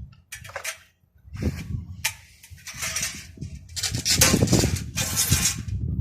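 Irregular clattering and scraping of hard objects being handled, a run of short noisy bursts that grows busier in the second half.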